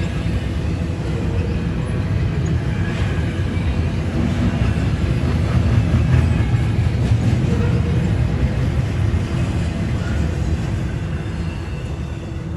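Freight train of intermodal container cars rolling past with a steady heavy rumble, growing louder to about halfway through and then slowly fading.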